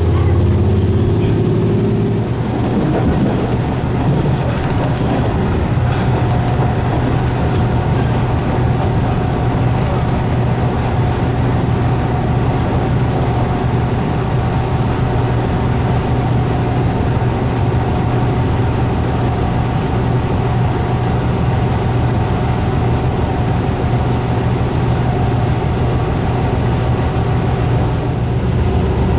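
Diesel railcar running along the line: a steady engine drone over track rumble, the engine note shifting about two seconds in and then holding steady.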